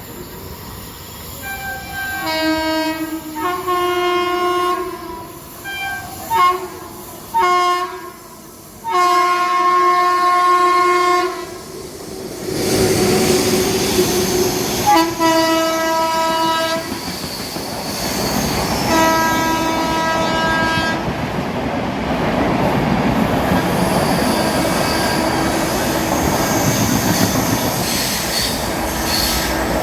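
Train horn sounding a string of short and long blasts, the longest about nine seconds in. Then the train passes with a steady rumble of wheels and coaches on the rails, and the horn sounds twice more over it.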